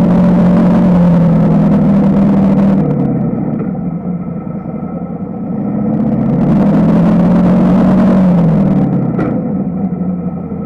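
A pulling tractor's engine running hard at high revs. It holds a steady pitch, eases off about three seconds in, then builds again and holds before dropping away near the end.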